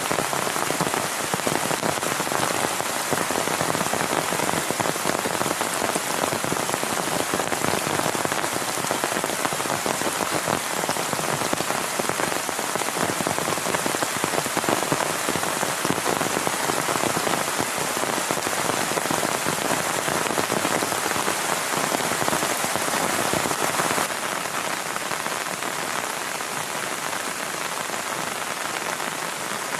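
Heavy rain falling steadily, a dense continuous wash of rain noise that eases a little near the end.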